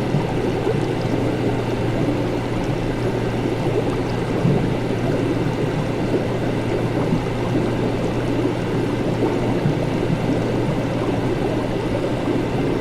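Steady laboratory ambience: a constant low hum under a dense, even rush of noise.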